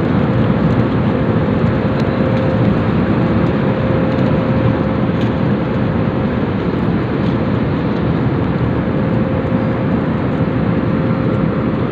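Steady airliner cabin noise: the even rumble of the jet engines and airflow, with a steady hum above it.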